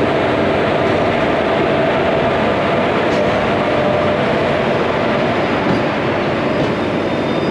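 A passenger train hauled by an electric locomotive moving past at close range: a loud, steady rumble of wheels on rail, with a faint steady hum.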